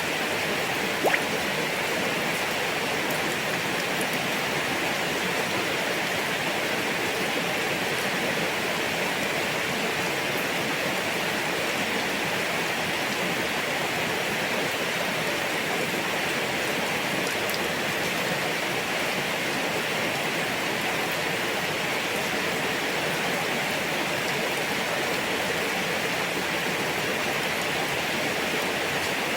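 Steady rain falling, an even hiss that holds at one level throughout, with one louder tap about a second in.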